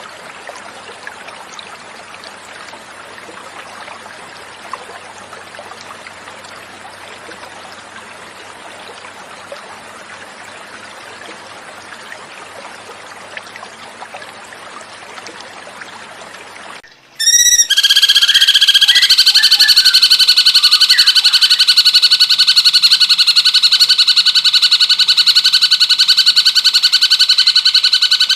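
Gently flowing water as a steady rushing, then about two-thirds of the way through a cucak cungkok recording cuts in suddenly and much louder: a fast, unbroken trill on a few steady pitches, held to the end.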